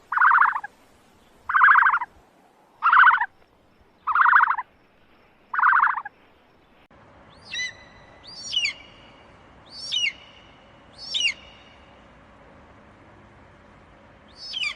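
Bird calls: five loud, harsh calls about a second and a half apart, then, after a cut, a different bird's repeated swooping whistled calls, about one a second.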